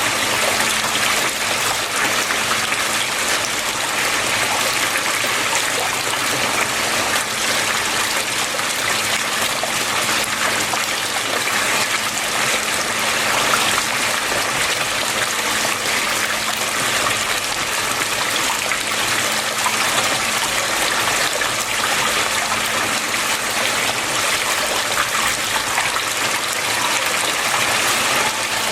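Water flowing and trickling steadily, an even rushing sound with no breaks, over a faint low steady hum.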